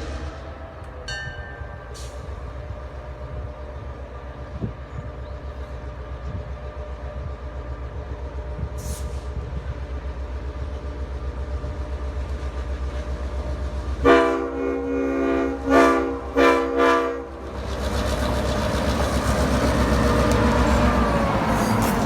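Diesel locomotive hauling a passenger train, its engine throbbing steadily and growing louder as it approaches. About two-thirds through, its horn sounds a series of blasts, the first one long and the rest short, and the engine is loudest near the end.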